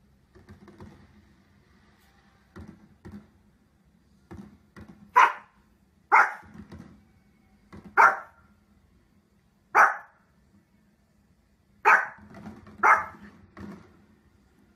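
Small fluffy dog barking, six loud sharp barks at uneven intervals of one to two seconds, with softer short yips and grumbles before and between them.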